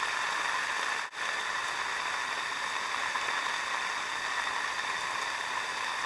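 Heavy typhoon rain falling steadily, an even hiss that cuts out for a split second about a second in.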